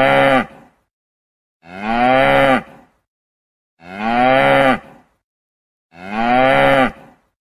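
Cow mooing: the same call repeated four times, about two seconds apart, each call about a second long and falling in pitch at its end.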